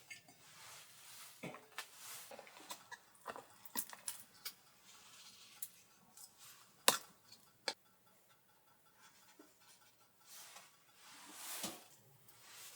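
A run of small clicks, taps and rustles of objects being handled, with two sharper knocks a little after the middle and a longer swishing rustle near the end.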